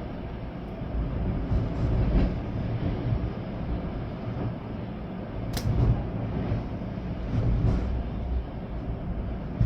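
Storm wind gusting in surges, buffeting the microphone with a low rumble, over a steady hiss of rain. A single sharp click about five and a half seconds in.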